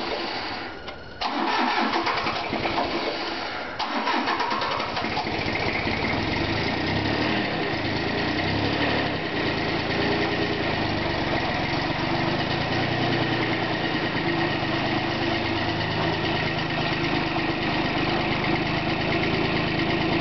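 Bolens G174 garden tractor's engine being cranked on a cold start: two spells of starter cranking, broken by a short pause, until it catches about four seconds in and settles into a steady idle.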